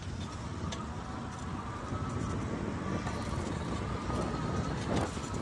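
Riding an e-bike: a steady rush of wind and tyre noise, with a faint thin whine that rises slightly in pitch and the overall sound growing a little louder.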